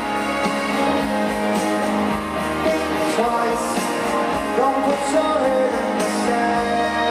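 Live rock band playing a song in concert.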